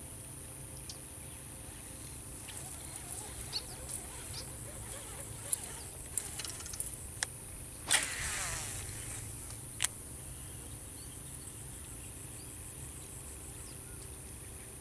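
Insects giving a steady high-pitched drone, with scattered sharp clicks and a short noisy burst about eight seconds in.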